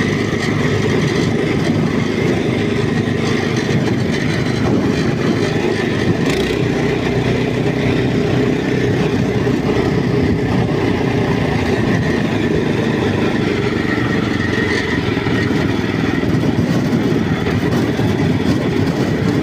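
Walk-behind tractor (motoblock) engine running steadily while the machine is driven along, with an even, unbroken sound throughout.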